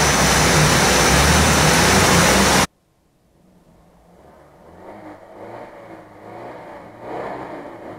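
Loud, steady noise with a low engine drone that cuts off abruptly about two and a half seconds in. Then a UAZ-469 off-roader's engine revs as it crawls through mud, rising and falling in pitch and growing louder.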